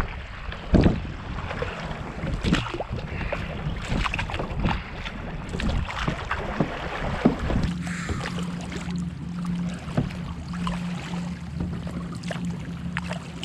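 Canoe being paddled through wind-chopped water: paddle strokes and water splashing and slapping against the hull, with wind buffeting the microphone. About halfway through the low wind rumble drops away and a steady low hum sets in.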